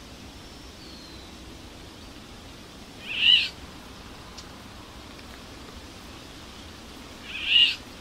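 A bird giving two loud, short calls about four seconds apart, each rising and then falling in pitch, over a steady hiss. A faint, thin, falling chirp comes near the start.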